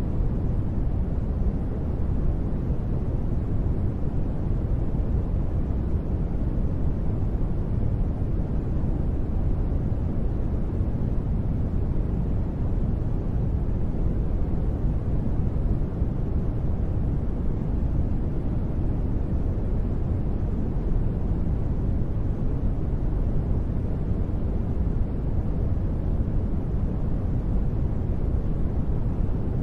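Continuous sleep noise, sold as white noise but weighted heavily to the low end: a deep, even rush with little hiss, unchanging throughout.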